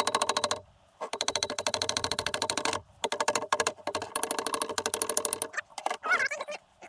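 Rapid, even mechanical clicking, many clicks a second, in runs of a second or two with short breaks between, turning irregular near the end.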